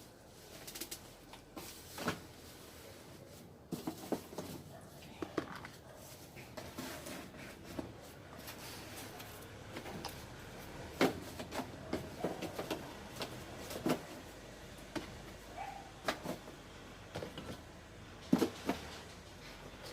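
Irregular clicks, knocks and rattles of equipment being handled and moved about, a few sharper knocks standing out. No welding arc is heard.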